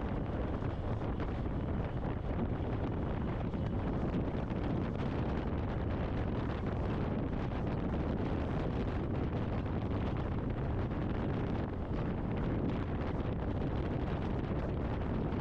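Steady wind rush buffeting a helmet-mounted Cardo com-unit microphone on a motorcycle riding at speed, with the bike's running noise buried in it.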